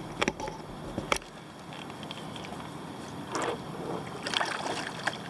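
Kayak paddling: the paddle blades swish and splash through the water in strokes, with two sharp knocks in the first second or so.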